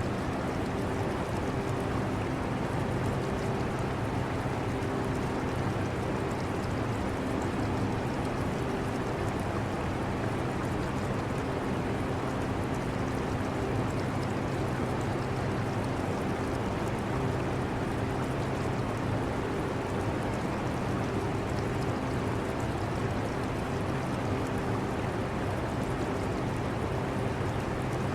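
Air conditioner running with a steady hum and rush of air, mixed with the trickle and bubbling of an aquarium's water.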